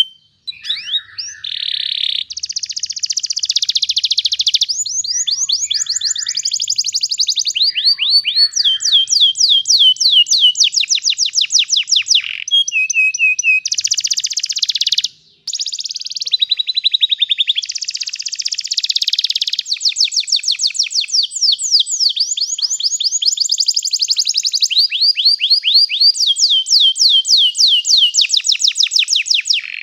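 Domestic canary singing a long rolling song: fast trills of repeated falling whistled notes, one phrase after another, with short breaks just after the start and about halfway through.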